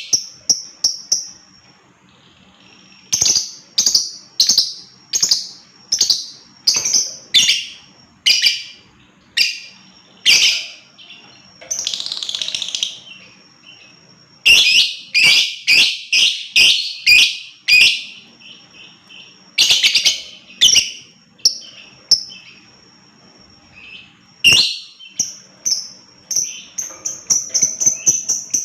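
Lovebird calling with loud, shrill chirps, one after another, in irregular runs. The calls quicken into a fast chatter near the end.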